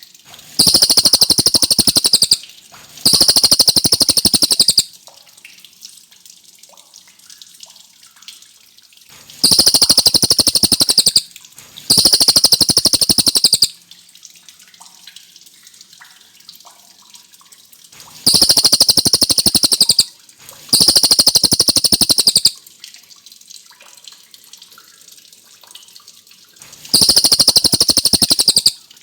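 Cililin songbird singing loud, fast rolling trills, each phrase about two seconds long. The phrases come in pairs with pauses of several seconds between pairs, seven phrases in all, over a faint hiss.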